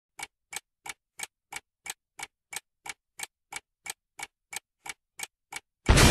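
Steady clock-like ticking, about three ticks a second, cut off near the end by a sudden loud crash.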